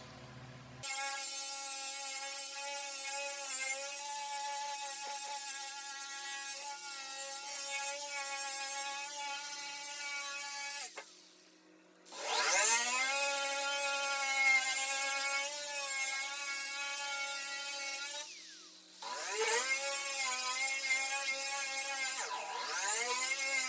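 Electric grinder running against the truck's door panel, grinding it down to bare metal. It stops twice, near the middle and again about three-quarters through, each time spinning back up with a rising whine, and briefly slows near the end.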